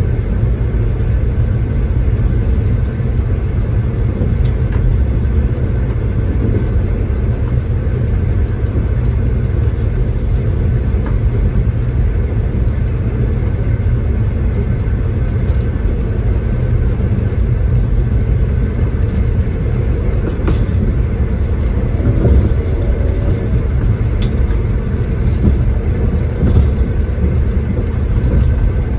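Steady low rumble of a V/Line diesel passenger train running along the line, heard from inside the carriage, with a few faint clicks and knocks from the running gear.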